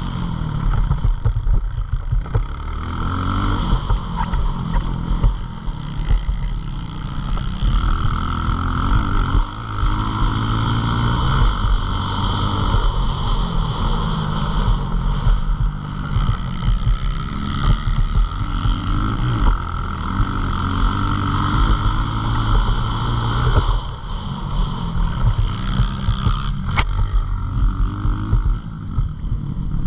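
Pit bike engine running under load, its pitch climbing and dropping again every few seconds as it revs through the gears and backs off. A single sharp click comes near the end.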